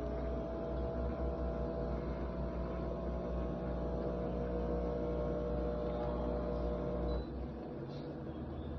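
Espresso machine pump running with a steady hum while pulling a ristretto shot, stopping about seven seconds in.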